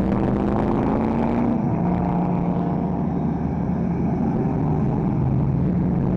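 Engines of a line of Holden sedans (a Commodore, an HR and a Torana) driving slowly past one after another at low revs. The low engine note is steady, with a shift in pitch a little under two seconds in as one car gives way to the next.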